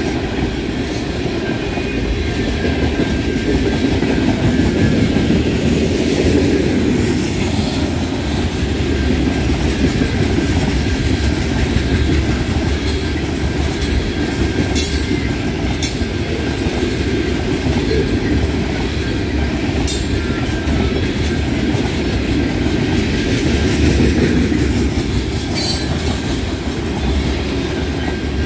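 Freight train of tank cars and covered hoppers rolling past close by: a steady, loud rumble of steel wheels on the rails. A few brief sharp high clicks come through in the second half.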